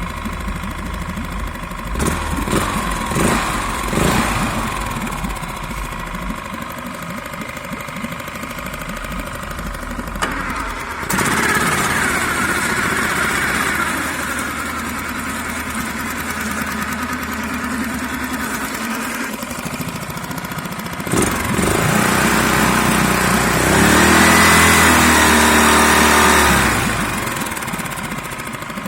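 Veterok two-stroke outboard motor, a hybrid build that exhausts into water, running throughout. It speeds up briefly about eleven seconds in, then speeds up again and louder for several seconds near the end before settling back.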